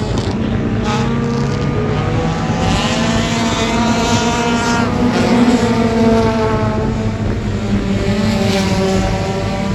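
Race car engines revving, with several engine tones overlapping and their pitch rising and falling repeatedly.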